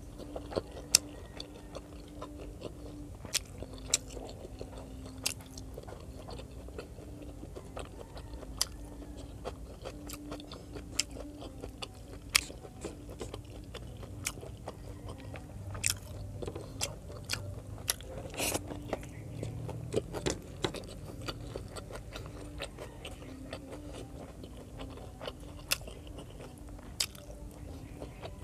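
Close-miked chewing of braised pork adobo and rice, with sharp wet clicks scattered throughout. A faint steady hum runs underneath.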